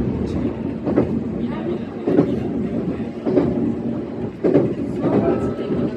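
E131-series electric train running along the line, its wheels clacking over rail joints about once every 1.2 seconds over a steady low rumble.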